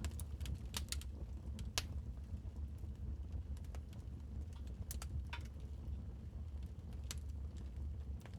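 Wood fire crackling in a fireplace: scattered sharp pops and snaps at irregular intervals over a steady low rumble of the burning logs.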